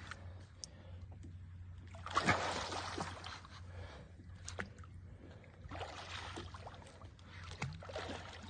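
Water sloshing and splashing in a couple of bursts over a low steady hum.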